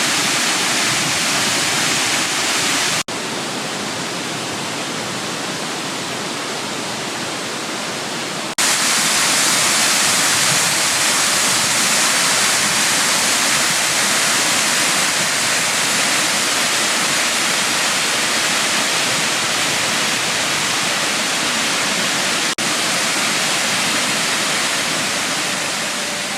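Waterfall: a steady, loud rush of falling water. The level changes abruptly twice, quieter from about 3 seconds in and louder again from about 8 seconds, with one more brief break later. It eases slightly near the end.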